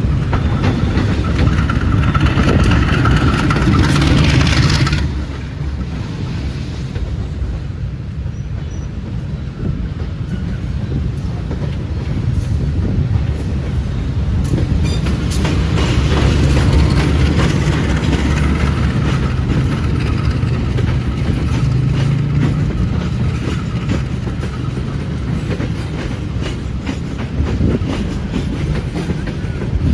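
Diesel train running close by: a heavy low rumble with the clatter of wheels over rail joints. It eases about five seconds in, then builds again.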